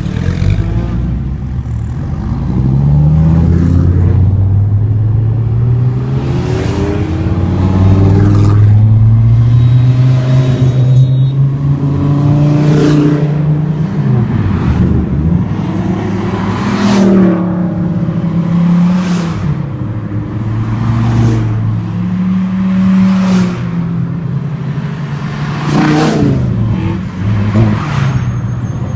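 Sports car engines revving and accelerating on a street, the engine note climbing in steps, dropping back and climbing again, with several cars passing by close.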